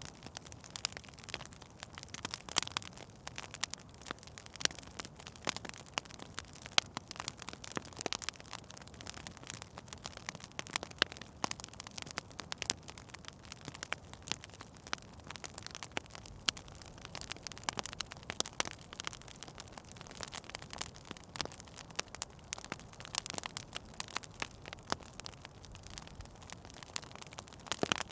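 Wood fire crackling in a fireplace: frequent, irregular sharp pops and snaps over a faint steady hiss.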